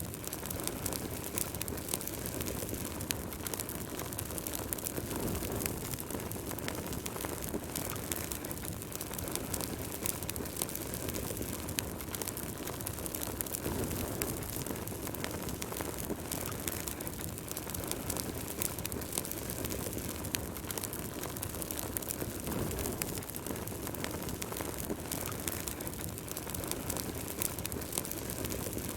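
Wood fire burning in a fireplace, crackling with a steady scatter of small pops and snaps over a low rushing rumble of the flames.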